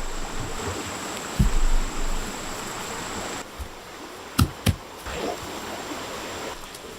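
Steady rush of running water, with a low thump about a second and a half in and two sharp clicks a little after halfway.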